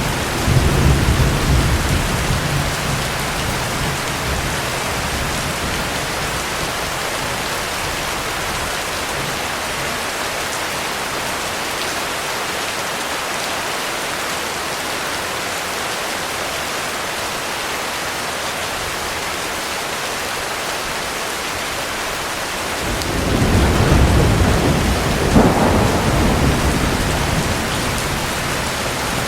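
Heavy rain falling steadily, with thunder. A low rumble dies away over the first few seconds. Near the end a new roll of thunder builds, with a sharper crack partway through, then fades.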